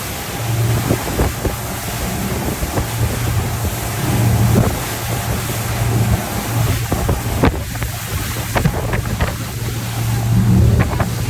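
Motorboat running underway, its engine a steady low hum under heavy wind buffeting on the microphone and water rushing past the hull, with a few sharp knocks and gusts along the way.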